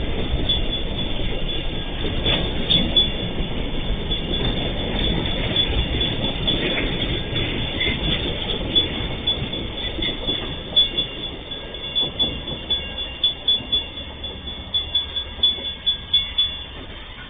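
A train rolling past on the rails: a steady rumble of wheels with thin high-pitched wheel squeal, and through the second half a regular clicking of wheels over rail joints, about two to three a second.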